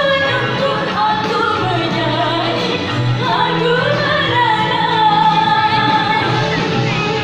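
Singing voice with musical accompaniment, held notes bending up and down over a steady backing.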